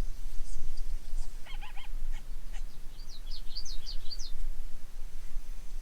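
A pack of coyotes yipping and howling some distance off. There is a short burst of wavering yips about a second and a half in, then a run of quick, high yips around three to four seconds in.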